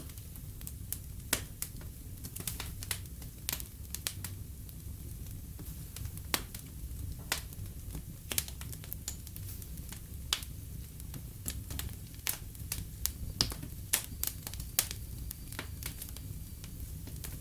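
Wood fire in a fireplace crackling, with sharp irregular pops and snaps over a steady low rumble of burning.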